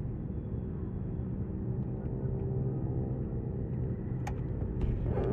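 Yamaha MT15's single-cylinder engine through an SC Project full-system exhaust with its silencer insert, running at low, steady revs while riding. The exhaust note grows a little stronger about two seconds in, and a few sharp clicks come near the end.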